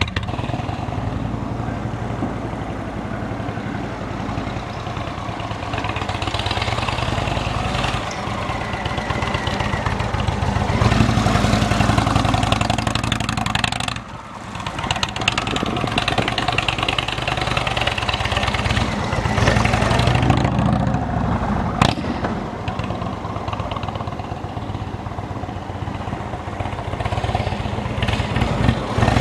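Indian motorcycle's V-twin engine running through Freedom Performance shark tail slip-on mufflers on stock headers. It gets louder twice, around ten seconds in and again near twenty seconds, with a short drop in level at about fourteen seconds.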